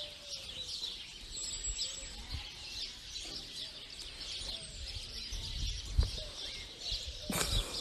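Many small birds chirping and twittering steadily in the background, with a few brief low bumps, the strongest about six seconds in.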